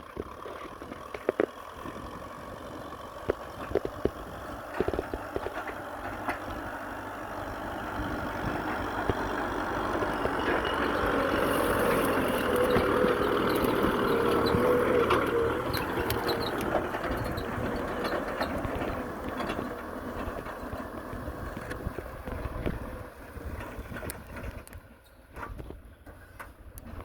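Kubota M6040SU tractor's diesel engine running, growing louder to a peak about halfway through and then fading as it passes and moves off. Occasional short knocks are heard over it.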